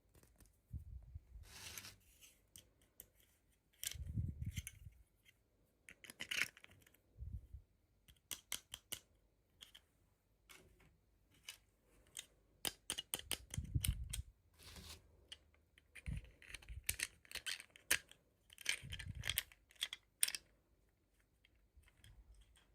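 Hands handling and opening toy doll packaging: an irregular run of sharp clicks and short crinkling rustles, with a few soft thumps.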